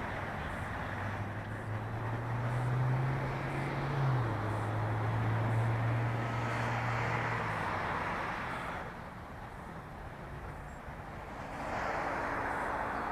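Road traffic going by, with tyre noise that swells and fades as vehicles pass, one of them with a low engine hum, and a second vehicle passing near the end.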